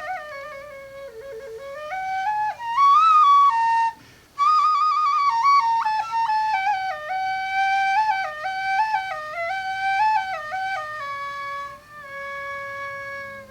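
Solo flute playing a slow, ornamented melody with quick trills, breaking off briefly about four seconds in and ending on a long held note.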